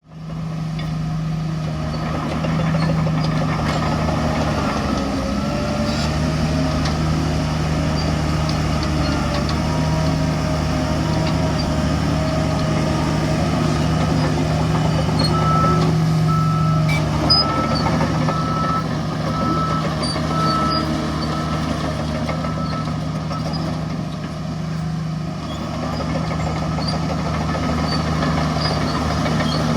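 Heavy diesel earthmoving machinery running steadily, the bulldozer and dump truck engines at work. From about halfway through, a reversing alarm beeps for several seconds, roughly once a second.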